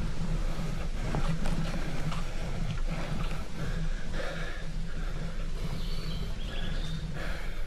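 Steady low rumble of wind and riding noise on the microphone during a bicycle ride, with scattered light clicks and a few faint high chirps near the end.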